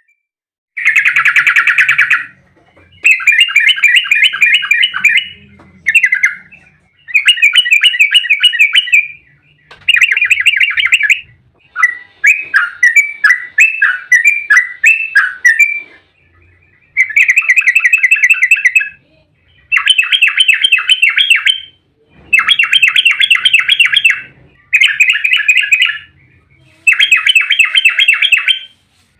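Yellow-vented bulbul (trucukan) singing an excited, fast rolling 'ropel' song. It comes in about ten loud bursts of rapidly repeated bubbling notes, each one to two seconds long, with short pauses between. This is the kind of song used as a lure to provoke other trucuk into answering.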